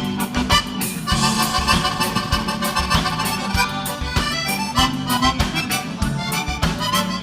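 Gaúcho vaneira dance music played live: the accordion (gaita) carries an instrumental passage between verses over bass and a steady, fast drum beat.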